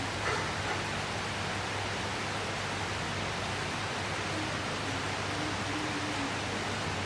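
Steady rain falling, an even hiss with a faint low hum beneath it.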